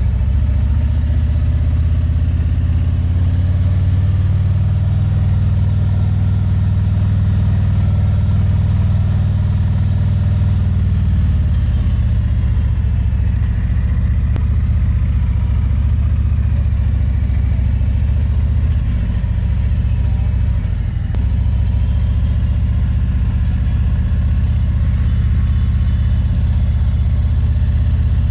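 Harley-Davidson Road Glide's V-twin engine running steadily under way at low speed, a low drone that eases slightly about halfway through.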